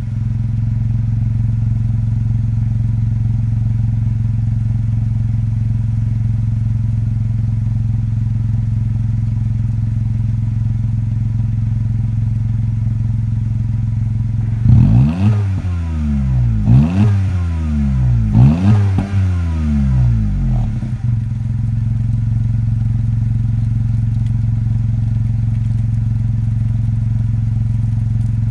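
Honda N-Box's 660 cc S07A three-cylinder engine idling through a Kakimoto Kai GTbox 06&S aftermarket muffler. About halfway through, it is revved in three short blips, each rising and falling in pitch, then it settles back to a steady idle.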